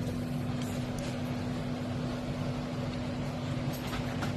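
Steady low hum of a running motor, unchanging throughout, with a few faint light clicks.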